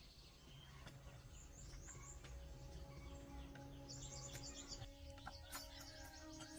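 Faint bird chirps, short high calls repeated in quick series, over quiet background. Faint steady tones come in partway through.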